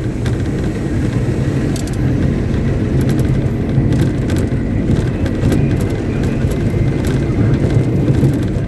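Caterpillar 777D haul truck's V8 diesel engine running steadily during a ground test, a low drone with occasional light clicks.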